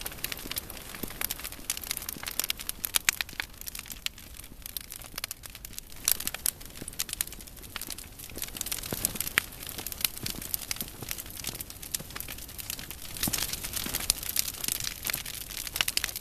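Large wood bonfire burning, crackling and popping irregularly over a low rumble.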